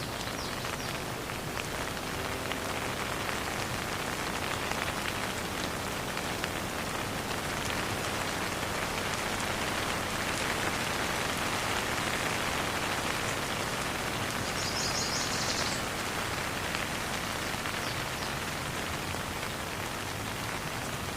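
Steady rain falling, a continuous dense patter of drops without thunder. It grows slightly louder in the middle and eases a little after about sixteen seconds.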